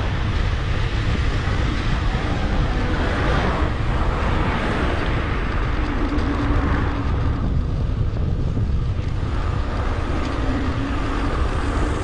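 Wind buffeting a helmet- or bike-mounted action camera's microphone during a bicycle ride, a steady low rumble, with road traffic swelling past several times.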